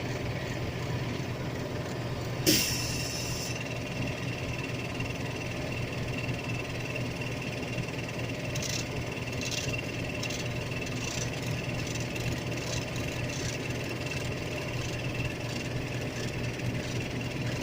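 An engine running steadily, with a sharp clank and about a second of hiss roughly two and a half seconds in, then light scattered clicking through the middle.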